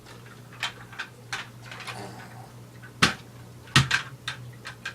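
Toys being handled and knocked together: a scattering of light clicks and taps, with two sharper knocks about three seconds and nearly four seconds in.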